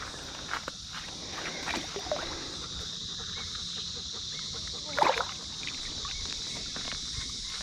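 Water sounds as a small bass is put back into the creek, with one louder splash about five seconds in, over a steady high hiss.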